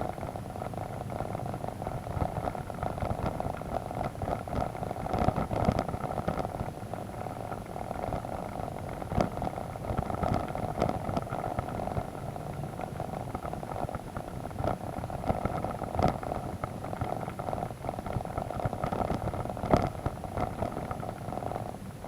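BMW adventure motorcycle engine running steadily at low speed, with scattered sharp knocks and clicks from the bike working over a rough muddy track.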